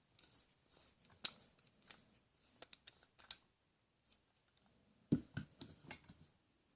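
Faint scattered clicks and light knocks of small objects being handled, with a duller thump about five seconds in.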